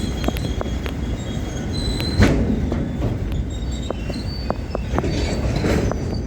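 Freight train of hopper wagons rolling slowly through a rail yard, with rumbling wheels, high thin wheel squeal that comes and goes, and scattered clicks and clanks. One loud knock comes about two seconds in.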